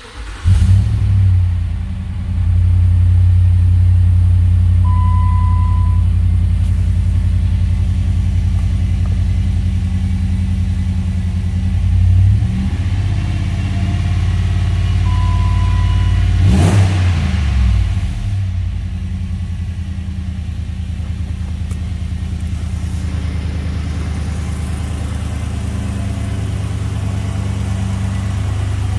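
A 2009 Jeep Grand Cherokee's 5.7-litre Hemi V8 comes to life at the start and runs steadily. It is revved briefly about twelve seconds in and again more sharply around sixteen seconds, then settles to a steady idle. A short steady beep sounds twice.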